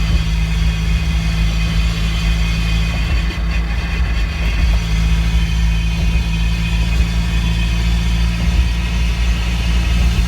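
NA Mazda Miata driving along: a steady low drone from the engine and drivetrain with road noise over it. This is the drivetrain noise that began after a differential change and that a transmission swap did not cure; its cause is unknown.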